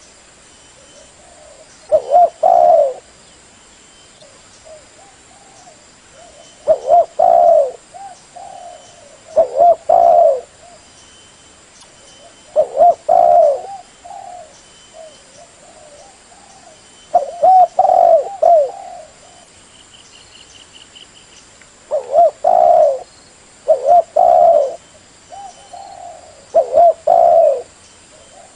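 Spotted dove (terkukur) cooing: short phrases of a few low coo notes each, repeated every few seconds.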